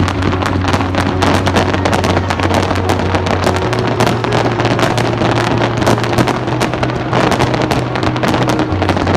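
Fireworks going off in a dense, rapid run of cracks and bangs, mixed with background music that holds steady low bass notes.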